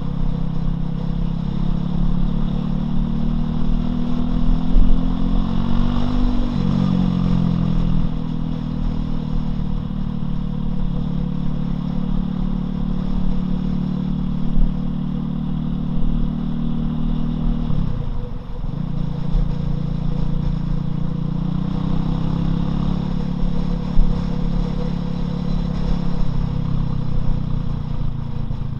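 Loncin LX250-12C motorcycle engine running on the move. Its note climbs a few seconds in, drops sharply and picks up again about two-thirds of the way through, then climbs again near the end.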